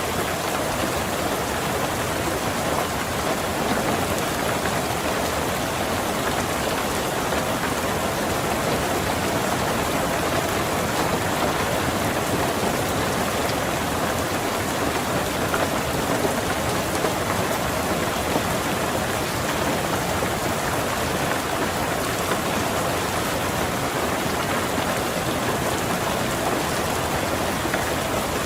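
Steady, unbroken rain falling on a car, heard from inside the car.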